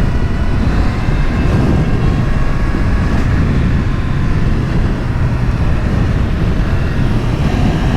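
Sport motorcycle engine running at a steady cruise with wind and road noise on the rider's microphone.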